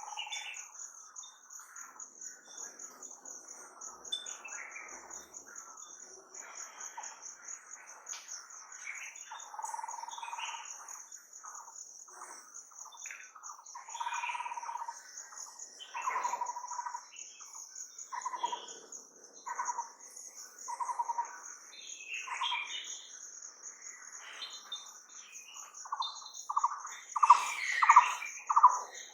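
Wild birds calling over a steady, high, pulsing insect trill. Near the end one bird starts a loud series of repeated notes, about three a second.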